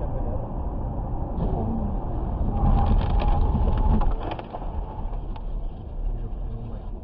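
Car moving, with steady road and engine noise. About two and a half seconds in it grows louder for a second and a half, with several sharp knocks and a held tone.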